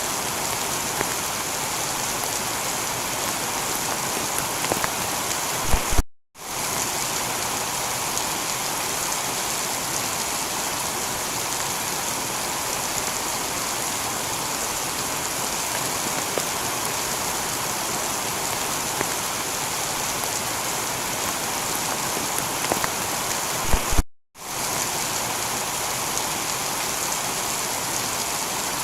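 Steady heavy rain falling on a tiled roof. Twice, about 18 seconds apart, it cuts out for a split second just after a brief low thump: the seam of a repeating loop.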